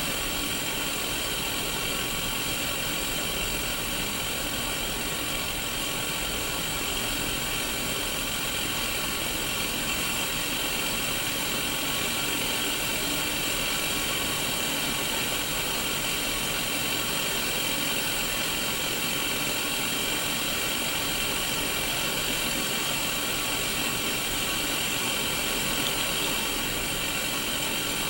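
Static hiss from an untuned Sony Mega Watchman black-and-white mini CRT TV, playing through its small speaker. The hiss is steady and even, strongest in the upper-middle range, with a faint layer of fixed tones running through it.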